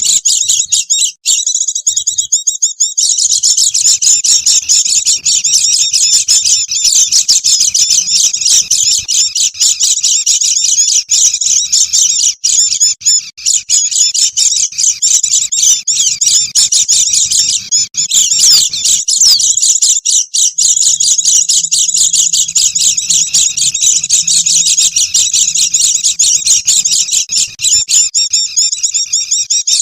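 A flock of white-eyes (pleci) twittering together in a dense, unbroken high-pitched chatter: a bird-lure call for trapping wild white-eyes.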